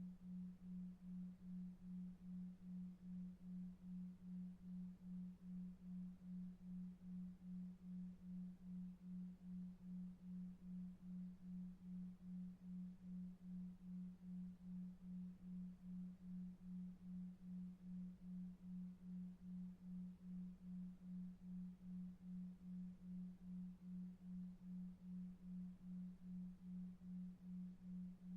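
Low pure tone pulsing evenly about two and a half times a second, a 2.5 Hz delta-wave sleep tone, over faint brown noise.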